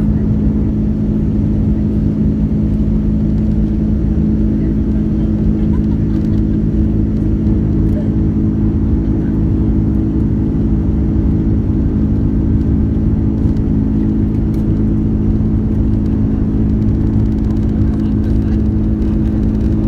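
Airbus A330-200 airliner heard from the passenger cabin: its engines and airflow making a loud, steady low rumble with a steady hum.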